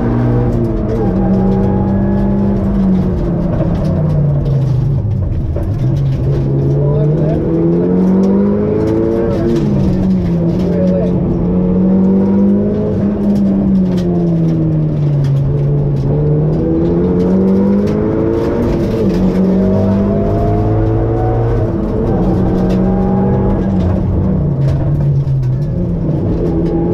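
Rally car engine heard from inside the cabin, running hard at speed. Its note climbs under acceleration and drops back several times as the driver lifts and changes gear.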